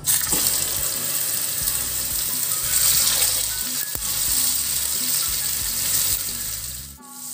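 Beef burger patties sizzling in hot oil in a frying pan, a loud steady hiss that starts suddenly as they go into the oil and dips briefly near the end.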